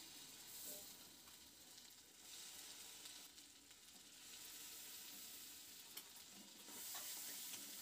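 Faint sizzling of a ground spice paste frying in melted butter in a kadai, stirred with a metal spatula, with a small tick of the spatula about six seconds in.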